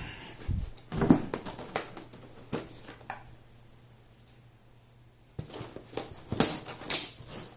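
Kit parts and packaging being handled: a few separate knocks and clatters, a pause of about two seconds, then a dense run of quick rustling and crackling from about five and a half seconds in.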